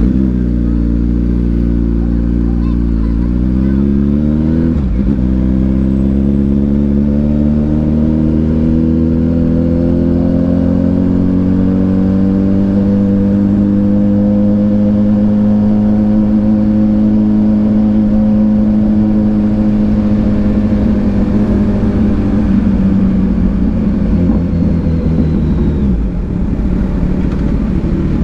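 Kawasaki Ninja 1000SX inline-four with an aftermarket AR exhaust, heard while riding. The engine note drops over the first few seconds, breaks sharply about five seconds in, then climbs slowly under steady throttle, holds steady for several seconds, and eases off near the end.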